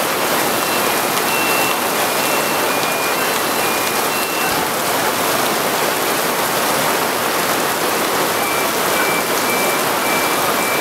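Heavy rain pouring steadily onto paving and market-stall awnings. A run of short, high electronic beeps sounds through it about a second in, and again near the end.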